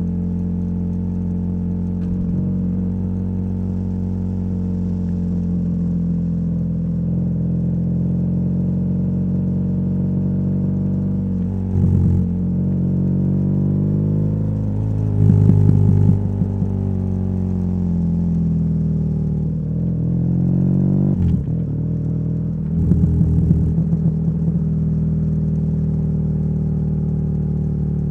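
BMW R nineT's boxer twin running through a Competition Werkes slip-on exhaust while riding, its pitch rising and falling with the throttle, with a few brief dips and louder blips from shifts and throttle changes. Short gusts of wind noise on the microphone come twice in the second half.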